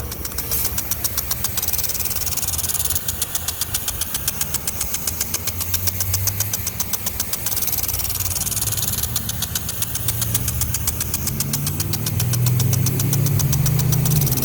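Impact sprinkler running, its drive arm ticking rapidly against the spraying water stream after its stuck reversing lever has been freed. A low steady hum underneath grows louder near the end.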